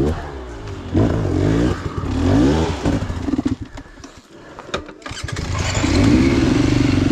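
Dirt bike engine revved in several rising and falling bursts, then dropping to a broken sputter about halfway through before picking up again and running steadily near the end.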